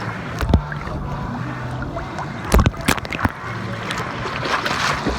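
Water sloshing and splashing close to the microphone, with a few sharp knocks.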